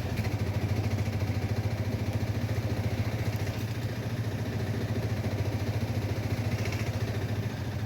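Auto-rickshaw engine running steadily with an even, rapid pulse, heard from on board.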